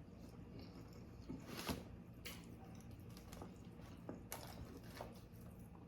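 Faint, close-up chewing of food, with a few soft mouth clicks and smacks scattered through.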